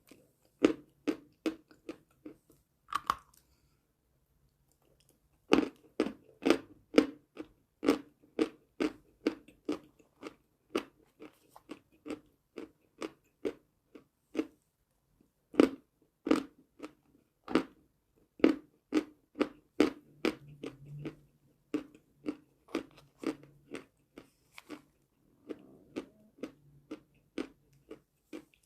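Close chewing of a hard, crunchy piece of chalk: a steady run of sharp crunches, about two a second, with a short pause near the start.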